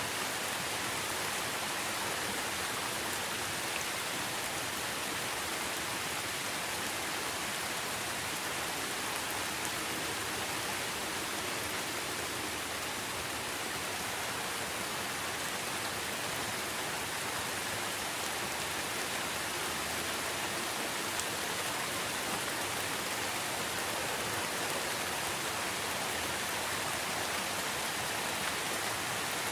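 Steady rain falling, an even hiss of many drops that stays the same throughout, with no thunder or other events.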